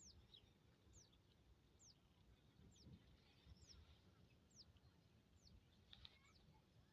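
Faint bird call: a short, high note falling in pitch, repeated regularly about once a second, over a low rumble.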